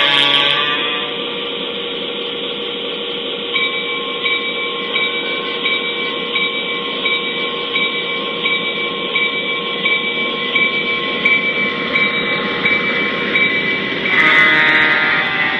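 Lionel F7 diesel locomotive's onboard sound system playing a steady diesel engine rumble, with a horn blast at the start and another near the end. In between, a bell-like tone rings evenly about every 0.7 seconds.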